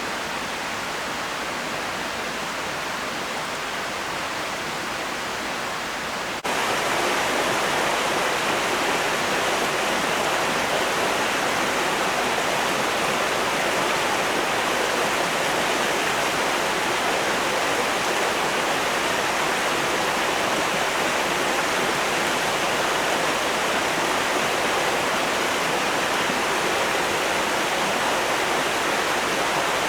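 Steady rushing of flowing water, an even noise with no distinct clicks or drops. About six seconds in it cuts abruptly to a louder, fuller stretch of the same sound.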